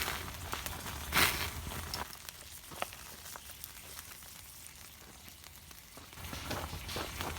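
Wagyu steak sizzling on a small iron griddle over a campfire: a steady frying hiss with scattered crackles, swelling briefly about a second in, dropping lower through the middle and rising again near the end.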